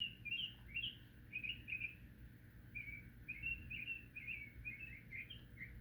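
A songbird chattering in a long run of short, quick chirps, about three or four notes a second, varying a little in pitch.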